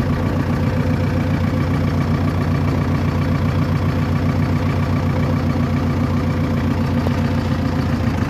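A vehicle engine idling steadily, an even low throb with no change in speed.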